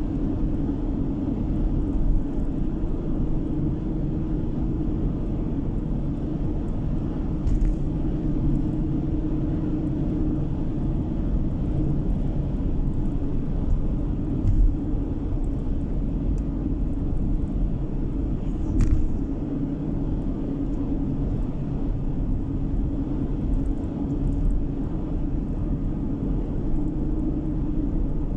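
Steady road and engine noise of a car being driven, heard from inside the cabin: a constant low rumble, with a few faint clicks or knocks.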